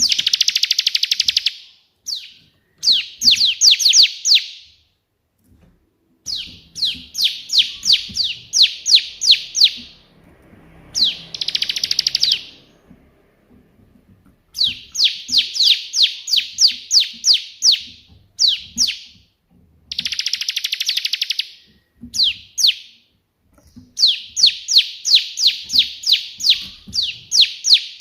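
Bar-winged prinia (ciblek) singing in the rapid-fire 'tembakan' style. Bursts of sharp, descending chirped notes come at about two to three a second, broken by short pauses and three dense buzzy trills.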